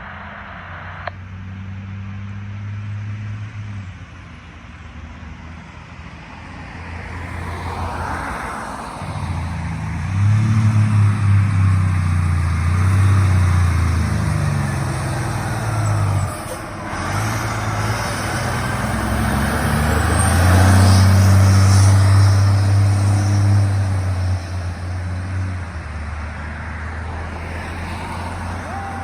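Fire truck's diesel engine running as the truck drives by. The low engine note builds to its loudest from about ten to twenty-four seconds in, with a brief dip around sixteen seconds, then eases off.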